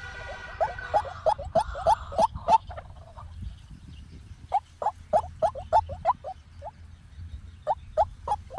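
White-breasted waterhen calling: rapid runs of short repeated notes, about four or five a second, in three bouts with pauses of a second or two between them, over a steady low hum.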